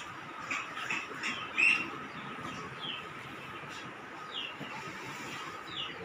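Small birds chirping: scattered short, high, falling chirps, the loudest about one and a half seconds in, over a faint steady hiss.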